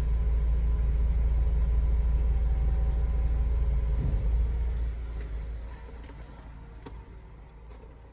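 Low, steady rumble of a motor vehicle's engine that fades away about five seconds in.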